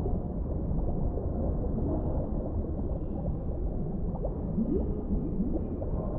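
Underwater ambience: a steady low rumble with gurgling, and short rising bubble-like glides, several of them about four and a half to six seconds in.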